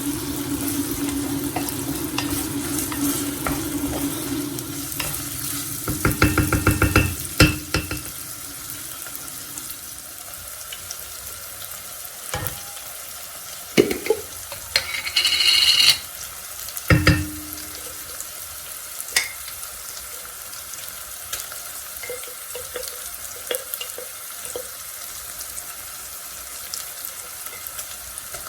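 Kitchen work: a tap runs for the first few seconds and stops. Then come a quick rattle, several knocks and clinks of utensils and dishware, and a faint steady sizzle of food frying.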